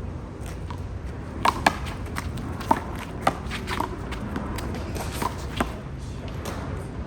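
A handball rally: a rubber handball is slapped by hand and rebounds off the wall and ground, giving about seven sharp smacks over roughly four seconds, with a steady low rumble under them.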